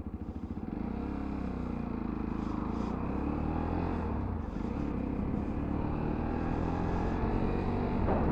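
A 125cc motorcycle engine ticking over at idle, then pulling away about a second in and running on under way with its pitch rising and falling.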